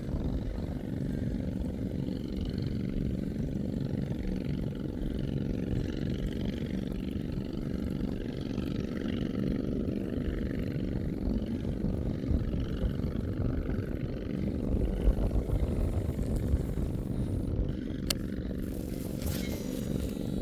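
A small boat engine running steadily with an even drone. A couple of sharp clicks come near the end.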